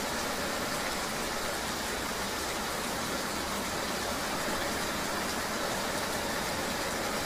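Steady rain-and-engine ambience: an even hiss of rain with a vehicle engine running underneath, unchanging and without distinct events.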